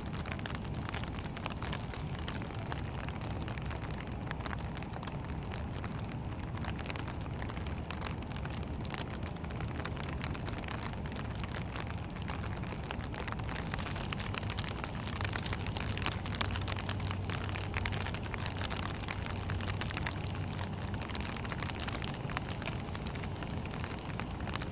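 Steady patter of rain, many fine drops ticking without a break. A low hum comes up for a few seconds in the middle.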